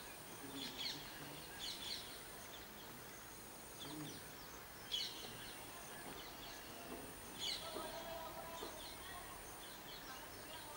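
Quiet outdoor ambience with short bursts of bird chirping every second or two, over a faint high-pitched buzz that pulses on and off.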